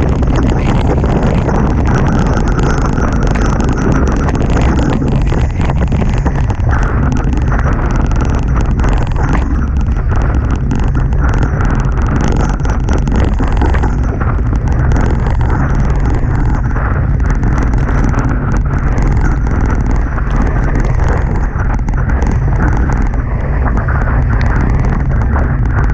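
Strong wind buffeting the microphone over the steady rush of water past the hulls of a Hobie Tiger catamaran sailing fast in high wind.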